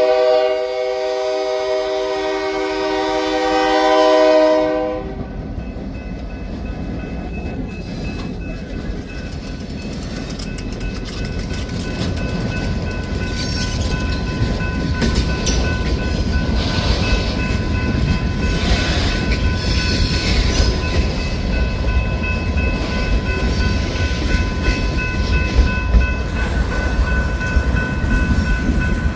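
A diesel locomotive's air horn sounds a long multi-note chord that cuts off about five seconds in. The train then rolls past, its steel wheels running on the rails with a rumble that grows steadily louder, and a thin steady ringing sits above the rolling noise.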